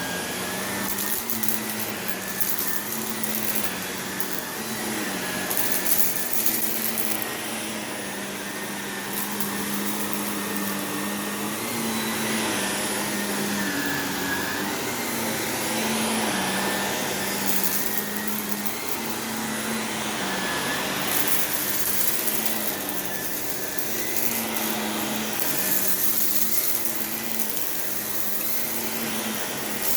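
Shark Navigator Lift-Away upright vacuum cleaner running steadily. Its motor pitch steps slightly up and down every second or two as it is pushed back and forth, with stretches of brighter hiss every few seconds.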